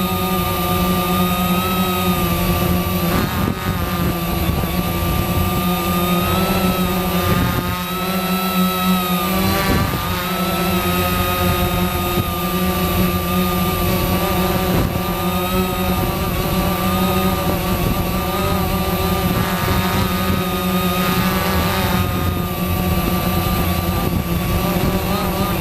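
Quanum Nova quadcopter's motors and propellers running in flight: a steady buzzing whine made of several tones, whose pitch rises and falls slightly with throttle.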